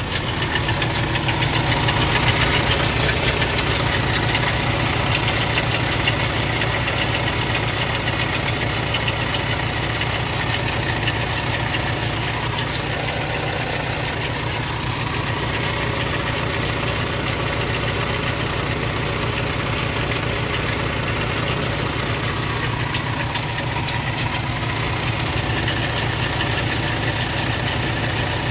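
Semi truck's diesel engine idling with a rapid, steady knocking from inside the engine. The noise gets louder over the first couple of seconds. It is the sign of a failing fuel pump.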